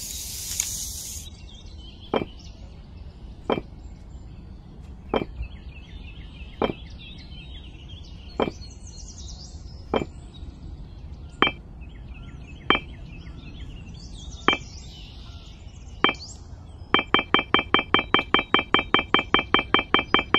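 Miniature clay bricks clinking as they are picked up and set down one at a time, a sharp clink about every second and a half, then a quick run of clinks, about six a second, near the end.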